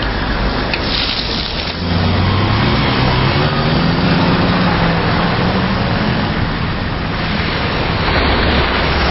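Road traffic: cars driving past with steady engine and tyre noise, and a louder engine hum from a passing vehicle about two seconds in.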